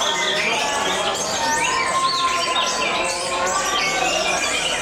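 Several caged canaries singing at once: a dense, unbroken tangle of trills and rising and falling chirps.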